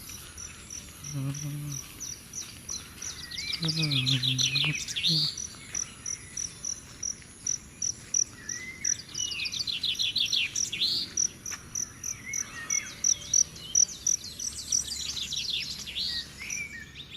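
Birds singing in the open: several songbirds trilling and whistling in bursts over a steady high chirp that repeats about three times a second.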